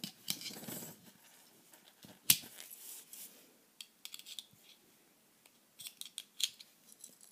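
A knife tip prying open the folded tools of a small metal pocket multi-tool: light scraping and small metal clicks, one sharp click about two seconds in and a run of quicker clicks near the end.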